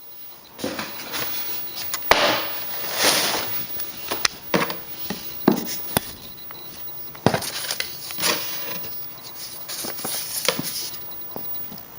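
Irregular handling noise: short rustling swishes mixed with sharp knocks and taps, like paper schedules and pamphlets being picked up, shuffled and set down.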